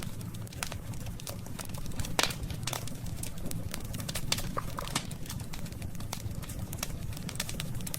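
Wood campfire crackling: irregular sharp pops and snaps, the loudest a little over two seconds in, over a steady low rumble of the burning fire.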